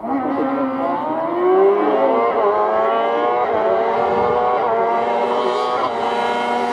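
Race car engine accelerating hard, its pitch climbing and then dropping back at each of several quick upshifts.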